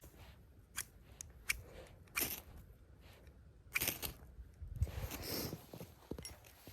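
Scattered crunches, snaps and scrapes of close handling, with louder rasps about two and four seconds in.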